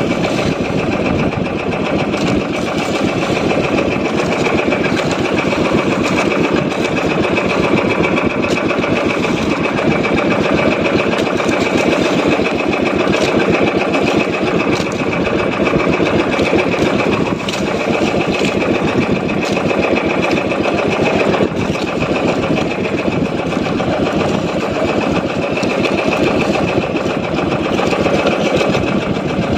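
Small boat engine running steadily at a constant speed, a fast even chugging with no change in pace.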